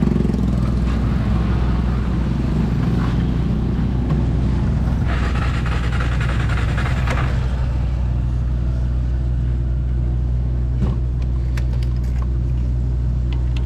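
Motorbike running on the road, a steady low drone with a stretch of louder hiss about five to seven seconds in.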